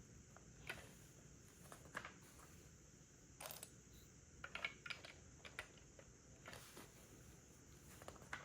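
Faint, scattered clicks and taps of small plastic Lego bricks being handled and pressed together, with a quick cluster of clicks around the middle.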